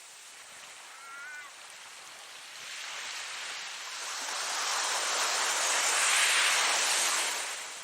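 Ocean surf: a wave builds up, is loudest a couple of seconds before the end, then quickly falls away.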